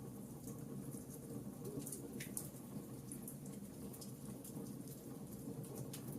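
Wood fire crackling: a steady low rumble of flames with scattered sharp pops and snaps, one louder snap about two seconds in.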